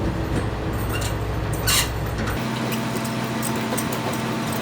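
Semi truck idling with a steady low hum and a short hiss about two seconds in. About halfway through, the deepest rumble drops away and a steadier, higher hum is left.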